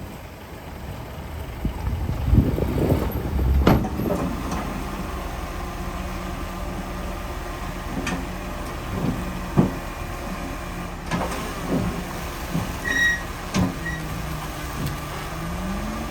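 Heavy diesel construction machine running steadily, with a loud low rush and a sharp knock a few seconds in. Several short clunks follow through the middle. The engine pitch rises and falls briefly near the end.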